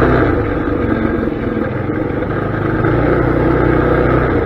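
Mini bike's small engine running; its note drops just after the start and picks back up about a second and a half in, then holds steady.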